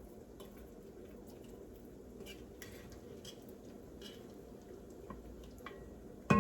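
Faint, scattered clicks and clinks of kitchen utensils and cookware over a low, steady room hum.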